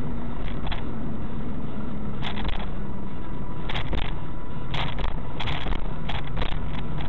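Steady road and engine noise of a moving car, heard from inside through a dashcam's microphone, with short crackles and clicks scattered through it.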